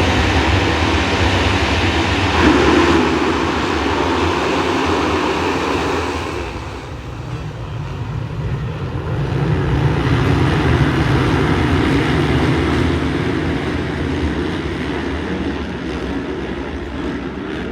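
Motocross dirt bike engines running, a loud steady engine noise that eases off about six seconds in and builds again a few seconds later.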